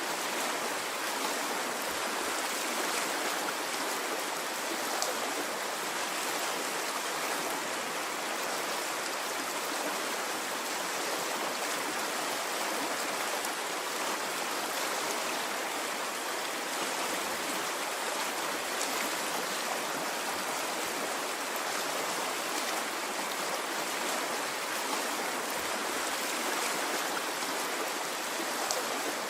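Stream water flowing steadily, an even rushing and babbling with no surges and a few faint drips.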